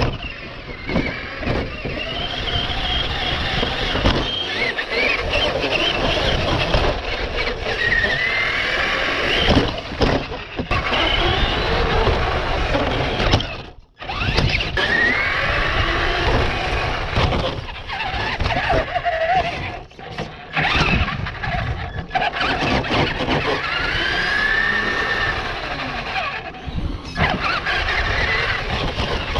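Radio-controlled car's motor whining, rising and falling in pitch as the throttle changes, over steady rumbling tyre and road noise picked up by a camera mounted on the car. The sound cuts out briefly about halfway through.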